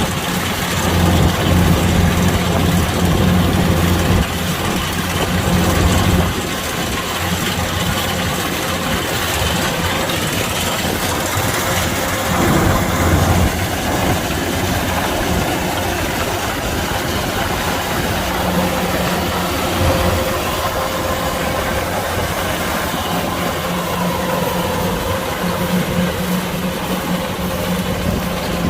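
Kubota DC-105X combine harvester running steadily, its engine and machinery making a continuous mechanical drone with a low hum and a steady higher whine. It is a little louder for the first few seconds and again briefly near the middle.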